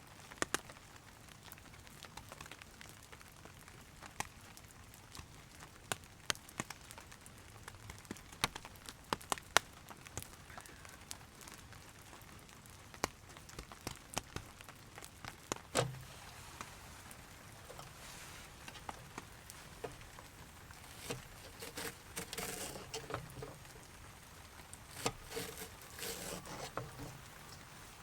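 Steady rain pattering on a tarp, with scattered sharp ticks and drips. Bouts of crinkly rustling start about two-thirds of the way through.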